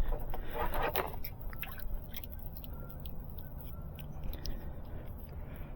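Handling noise: a brief scraping rustle in the first second, then scattered small clicks and ticks over a low rumble.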